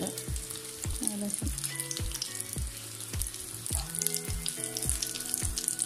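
Chicken pieces sizzling and crackling in hot oil in a frying pan, heard under background music with a steady beat.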